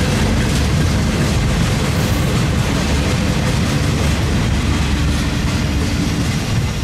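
Train rolling past: a loud, steady rumble of wheels and cars on the rails.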